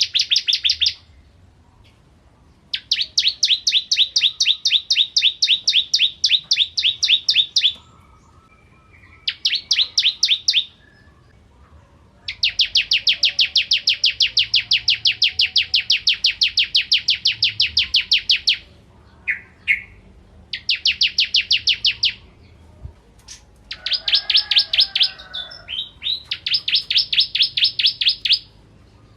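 Ciblek kristal (bar-winged prinia) singing: long, fast, even trills of high, sharp notes, repeated phrase after phrase with short pauses between, the longest lasting about six seconds.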